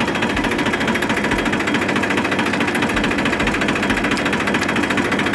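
Diesel farm tractor engine idling steadily, a fast even chugging.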